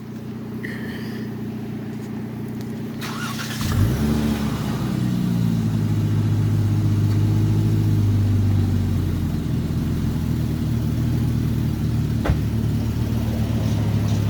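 Car engine running at idle. About four seconds in, an engine starts with a short flare and settles into a louder, steady idle. There is a single click near the end.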